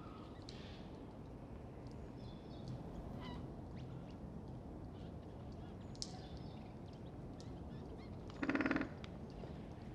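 Great spotted woodpecker drumming on an oak: one short, very fast roll of about half a second near the end, over a faint background with scattered small bird calls.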